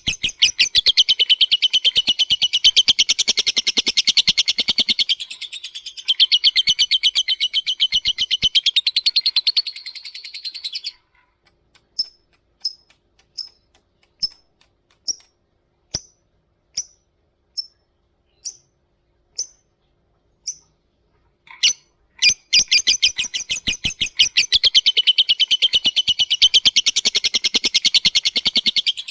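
Lovebird singing its long, fast chattering trill (ngekek). About eleven seconds in it breaks into single sharp ticking chirps (ngetik), roughly one and a half a second. The long chatter resumes about eight seconds before the end.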